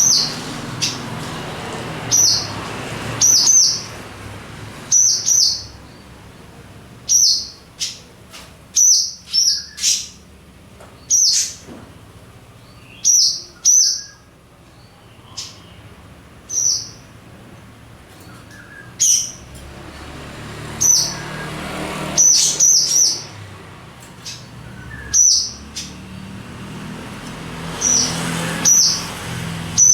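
Swallows giving short, sharp chirping calls again and again at irregular intervals, often two or three in quick succession, as a pair swooping to protect.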